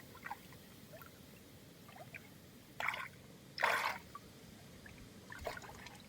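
Water dripping and splashing in short bursts over a low background hiss, with two louder splashes in the middle and another near the end.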